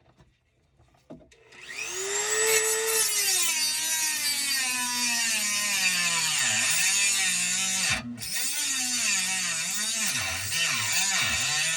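Power cutting tool starting up and cutting through the rusted mounting of an old garbage disposal. Its motor whine rises as it spins up about two seconds in, then sags and wavers under the load, with a short break about eight seconds in.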